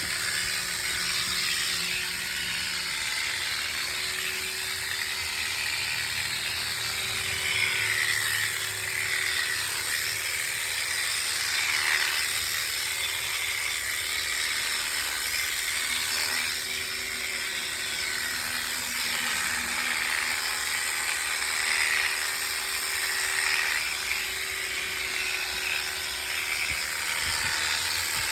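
Electric sheep-shearing clippers running steadily through a sheep's fleece, a constant motor hum with a buzzing hiss that swells a little now and then.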